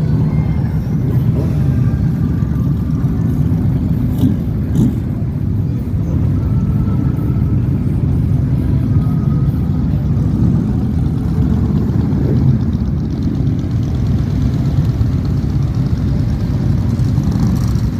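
Motorcycle engines running, a steady low engine noise with no clear single revving note.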